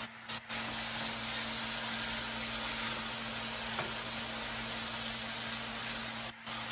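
Diced potatoes frying in bacon grease in a pan: a steady sizzle that starts about half a second in and cuts off near the end.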